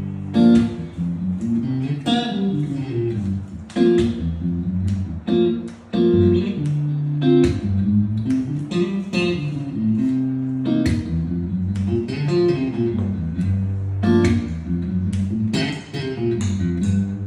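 Guitar played with plucked notes in a low register, a busy melodic line with a sharp attack on each note.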